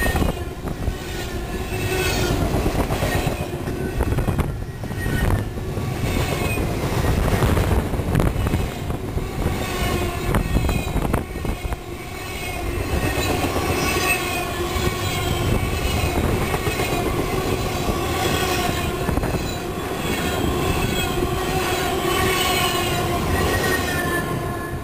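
Locomotive-hauled train rolling past, steel wheels on rail giving a steady rumble with repeated squeals and clicks. The sound drops away right at the end as the train clears.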